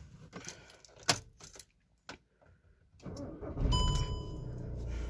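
Key clicks in the ignition of a fifth-generation Volkswagen Jetta, heard from inside the cabin. About three and a half seconds in, the engine cranks and starts, then settles into a steady idle. A short dashboard warning chime sounds as it catches.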